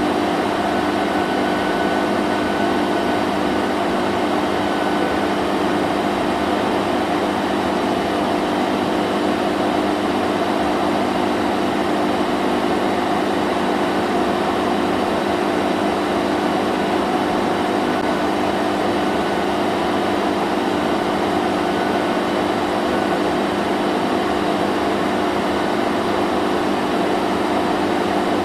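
Vacuum cleaner running continuously: a steady motor hum over rushing air noise, holding the same pitch and level throughout.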